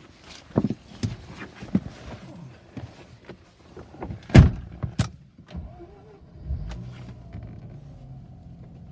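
A few knocks and a loud car door slam about four and a half seconds in, then a Mazda RX-8's twin-rotor rotary engine starting about two seconds later and settling into a steady idle.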